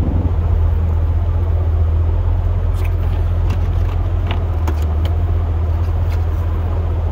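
Steady low rumble of a pickup plow truck heard from inside the cab while it drives, with a few faint scattered ticks.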